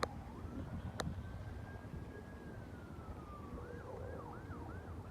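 Emergency vehicle siren sounding in the distance: one slow rising and falling wail, then switching near the end to a fast yelp of about three cycles a second. Two sharp clicks come at the start and about a second in, over a low rumble.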